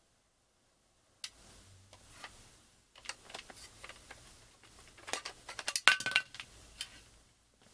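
Irregular plastic clicks, knocks and rattling as the Airtech Avanero1 air purifier is handled and taken apart. The clicking starts about a second in and is busiest five to six seconds in.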